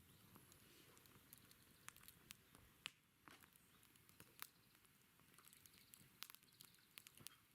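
Wood campfire crackling faintly: irregular sharp pops and snaps over a soft hiss.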